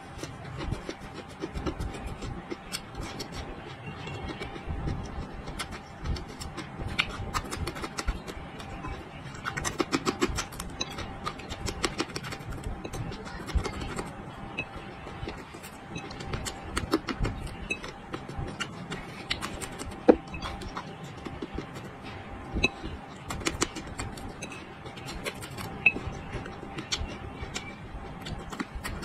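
Close-up chewing of raw chili peppers: many short, crisp crunches and wet mouth clicks, irregular and continuous, with a few louder bites, the loudest about twenty seconds in.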